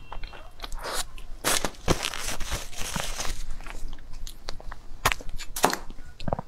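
Close-miked eating: a person biting and chewing food, with a run of crunching and sharp crackling clicks, densest a second or two in.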